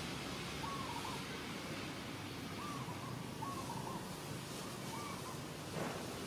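A bird repeating a short hooting call four times over a steady background hiss, with a brief rustle near the end.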